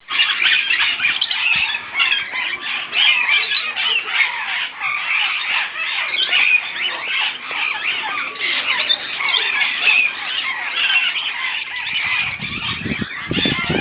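A flock of parrots squawking and chattering all at once, many overlapping calls forming a steady din. A low rumble comes in near the end.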